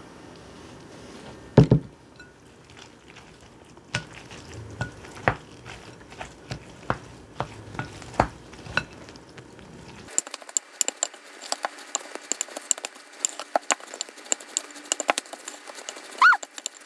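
Utensil knocking, clinking and scraping against a bowl while food is stirred and mixed, with one loud knock about a second and a half in and a dense run of quick light clicks in the second half. A short ringing note, like metal on a dish, comes near the end.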